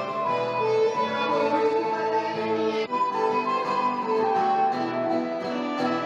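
Early-music dance tune played by a small ensemble, a fiddle carrying the melody over plucked strings, with a brief break in the sound about halfway through.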